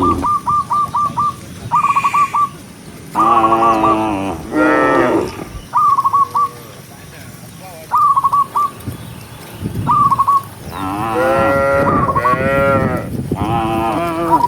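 Cattle mooing: long, low calls, two in quick succession about three seconds in and three more back to back from about eleven seconds in. Between the moos, runs of short, high whistled notes repeat every couple of seconds.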